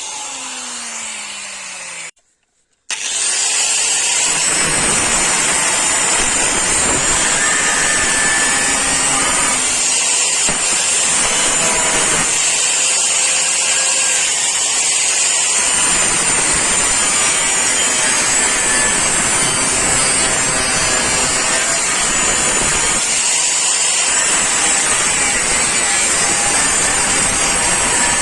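Abrasive power tool working the steel of a chainsaw bar: a tool spins down with falling pitch, then after a short break it runs again with a loud, steady grinding noise.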